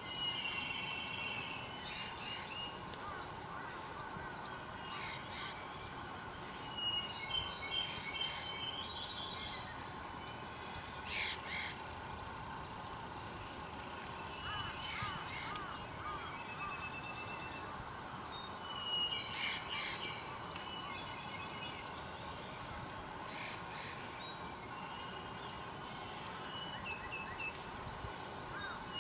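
Wild birds singing short, clear phrases every few seconds, with one call loudest about a third of the way in and another about two-thirds in, over a steady outdoor background hiss.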